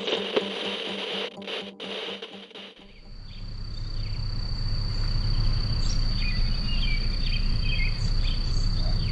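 A sound with steady tones that cuts off about three seconds in. It gives way to a steady high-pitched insect-like drone over a low rumble, with scattered short chirps.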